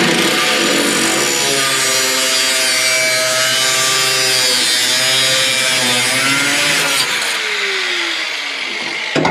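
Angle grinder with a cut-off wheel cutting through the steel hinge bracket of a car body, a steady loud whine with grinding. About seven seconds in it comes off the metal and the motor winds down, and there is a knock near the end.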